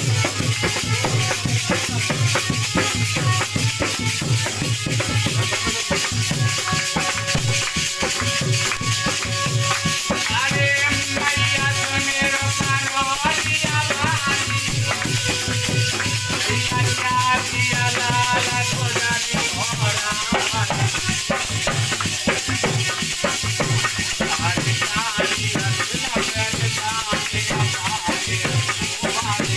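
Indian folk stage music: a steady drum beat with a shaker-like rattle, and a melody instrument playing a winding tune through the middle.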